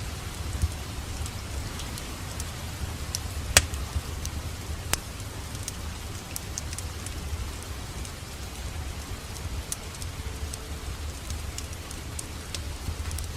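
Wood fire crackling in a fireplace: a low steady rumble of flame with scattered sharp pops and snaps, the loudest about three and a half seconds in.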